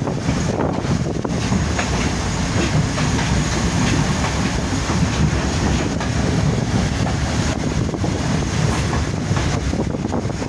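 Passenger train running steadily on the track, a continuous rumble of wheels on rails with wind buffeting the microphone.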